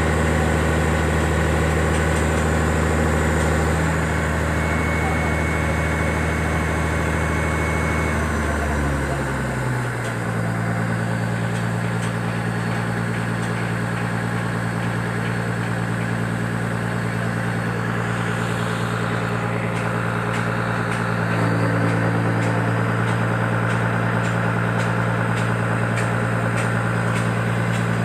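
Diesel engine of a concrete pump truck running steadily, stepping up to a higher steady engine speed about nine seconds in and holding there.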